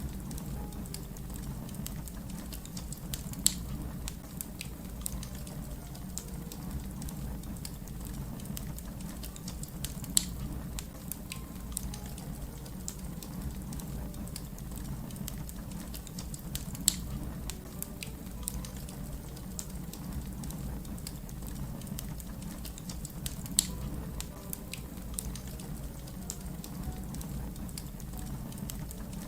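Fire crackling: a steady low rumble under constant small crackles, with a louder sharp pop about every seven seconds.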